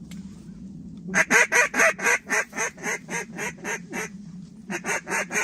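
Mallard duck call blown by a hunter: a quick run of about a dozen quacks, about four a second, growing quieter, then a second shorter run near the end, calling circling mallards back to the decoys.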